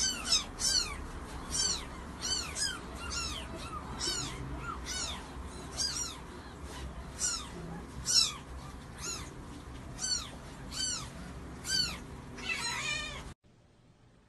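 Kitten mewing over and over, short high-pitched cries that rise and fall, about one to two a second, stopping abruptly near the end.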